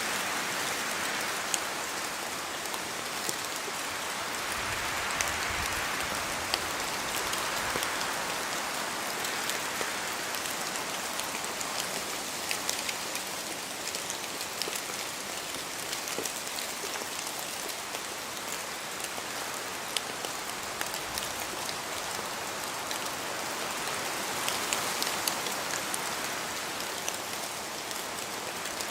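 Steady rain in a forest, a dense even patter with many single drops landing close by as sharp ticks. The wash swells and eases a few times as the wind gusts through the trees.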